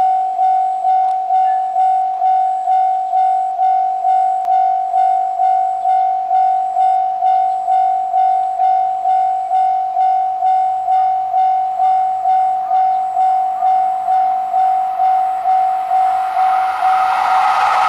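Japanese railroad crossing alarm bell ringing in a steady repeating ding, about one and a half strikes a second. Near the end the rising rush of the approaching Super Hokuto diesel express train comes in under it.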